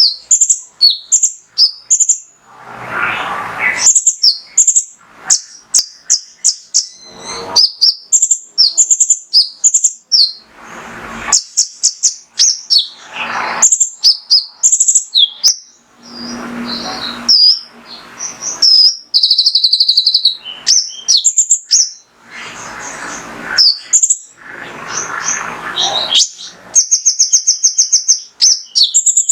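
Male kolibri ninja (a sunbird) singing in a rapid, high, sharp stream of chirps and twittering notes, broken by several harsher, noisier bursts. Near the end it runs into a fast trill of evenly repeated notes.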